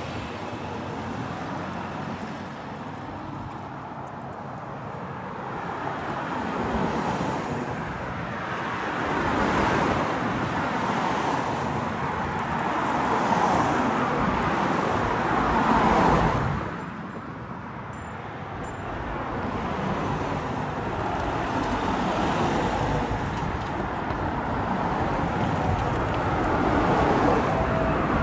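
Jet airliner passing overhead on final approach: a broad rushing roar that builds to a peak about two-thirds of the way through, then falls away quickly before the next one starts to build near the end.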